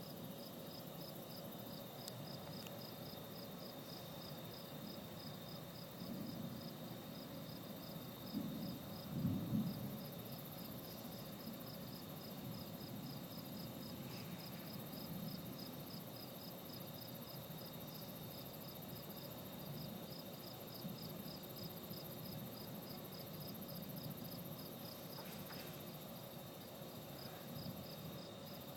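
Crickets chirping at night in an even, steady rhythm of a few high chirps a second. A louder low rumble comes about nine seconds in.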